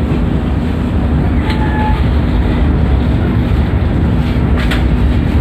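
Train running on the rails, heard from inside a passenger coach: a steady low rumble with a constant hum. Two short clicks come through, one about a second and a half in and one near the end.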